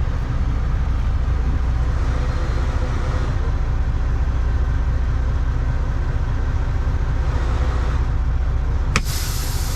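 Semi truck's diesel engine and road noise heard from inside the cab, a steady low drone. Near the end comes a sharp click, then a hiss lasting about a second and a half.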